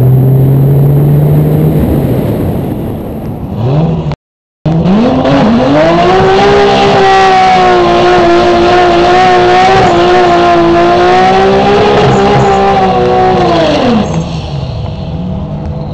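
Single-turbo 3.0-litre Toyota Supra straight-six pulling with rising revs. After a brief silence, the Supra does a burnout: the engine revs up, is held at high rpm for about eight seconds while the rear tyres spin, then drops back to a low rumble near the end.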